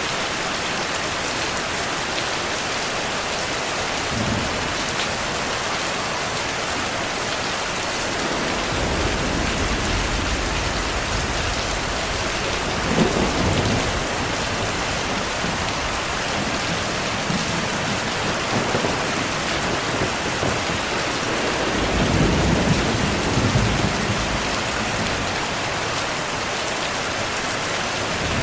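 Steady heavy rain with thunder rumbling low underneath; the thunder swells several times, with a sharper clap about halfway through and a longer roll a few seconds before the end.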